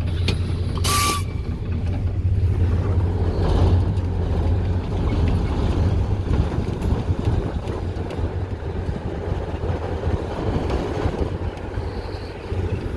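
Narrow-gauge TU6A diesel locomotive's YaMZ-236 V6 diesel running steadily as the locomotive moves along. About a second in there is one short, sharp hissing noise with a brief tone in it.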